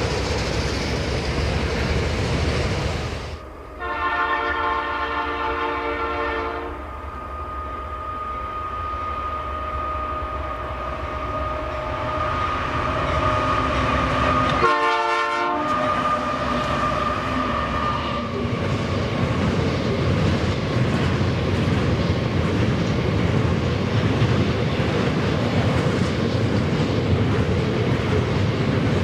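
Freight train hopper wagons rolling past on the rails. Then a diesel freight locomotive approaches, sounding its multi-note air horn in a blast of about three seconds, with a shorter one-second blast about eight seconds later. Its string of hopper wagons then rumbles and clacks past close by.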